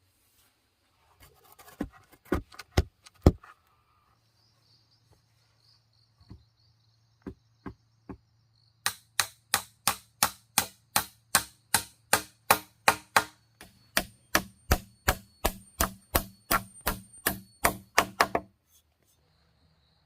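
Chopping at wood with a blade. A few scattered blows come first, then a steady run of about three blows a second for roughly nine seconds, which stops shortly before the end.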